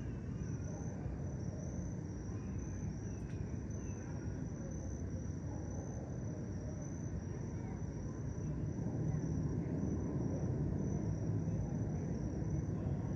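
Crickets trilling steadily in a high, evenly pulsing band, over a low, continuous rumble, with a few faint bird chirps. The rumble grows slightly louder about two thirds of the way in.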